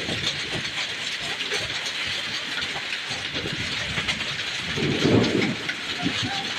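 Hail and heavy rain pelting down: a steady hiss thick with many small ticking hits, with a louder low rush about five seconds in.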